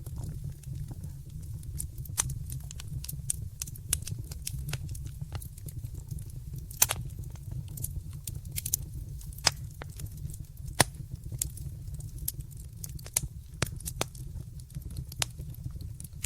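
Wood fire crackling in a fireplace: irregular sharp snaps and a few louder pops over a steady low rumble.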